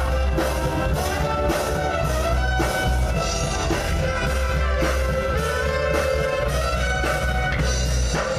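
Brass band playing an instrumental break in a pop song: brass carries the melody over a steady bass and drum beat, with no singing.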